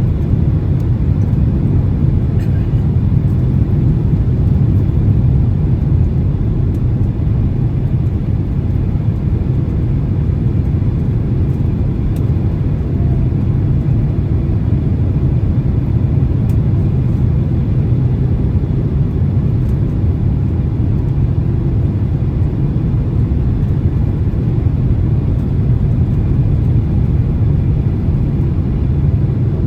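Steady low rumble of cabin noise inside a Boeing 767-300 in flight, from its jet engines and the airflow past the fuselage, with a few faint clicks.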